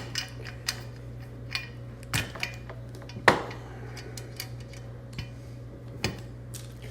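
Small metal parts of a gas regulator clicking and clinking as they are handled and set down, with the sharpest clink about three seconds in, over a steady low hum.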